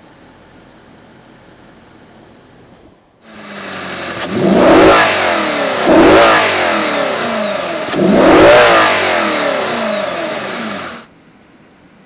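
2013 Audi RS5's 4.2-litre V8 revved hard three times, each rev rising sharply in pitch and falling back. The sound starts about three seconds in and cuts off abruptly about a second before the end.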